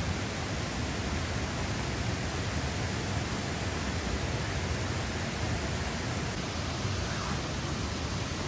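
Steady, unbroken hiss of heavily falling water.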